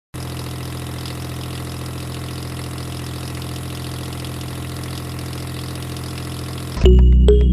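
A motor running steadily with an even, unchanging low hum. Near the end it is cut off by loud music.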